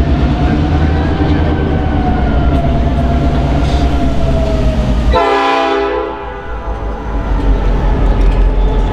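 Diesel-hauled train running by with a steady low engine rumble. About five seconds in, the rumble drops away and a brief shrill blast of many stacked tones sounds, then the train goes on more quietly.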